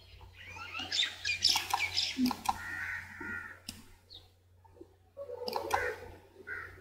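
Birds chirping and twittering in the background, busiest in the first few seconds, with a couple of sharp clicks like a computer mouse's.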